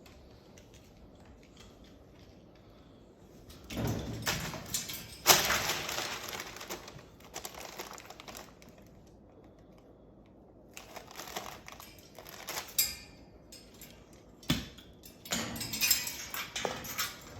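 A Moluccan cockatoo thrashing and bashing a small stuffed toy around: rustling, clattering and sharp knocks in three spells of a few seconds each, the first beginning about four seconds in.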